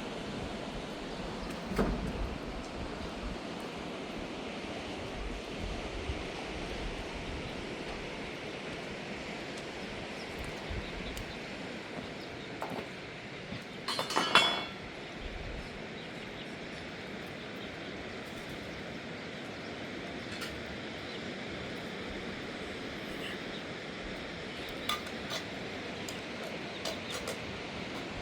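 Steady rain, with a brief burst of clinking about halfway through and a few light clicks near the end.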